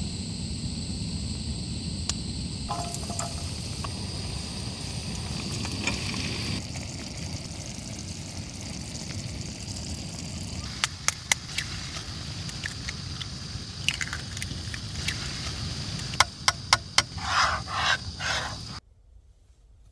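Small camping gas burner running steadily under a frying pan, with food sizzling in the pan. Sharp clicks and a few scrapes of a utensil on the pan come in the second half, and the sound cuts off suddenly near the end.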